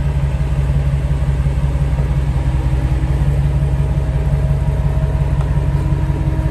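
Car engine running at a steady idle, a loud, even low rumble with a fast pulse.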